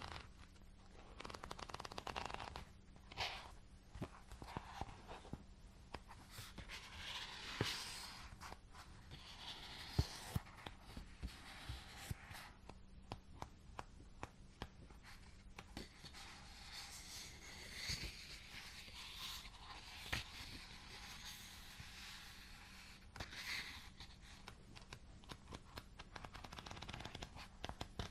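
Close-up ASMR handling sounds: soft scratching and rustling strokes mixed with many small sharp clicks and taps, coming in uneven bursts.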